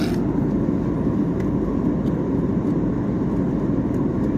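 Steady roar of an airliner cabin in cruise: engine and airflow noise heard from inside the passenger cabin. A brief click right at the start.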